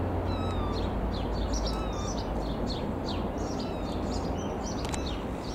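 Small birds chirping repeatedly in quick, short falling notes, over a steady low rumble.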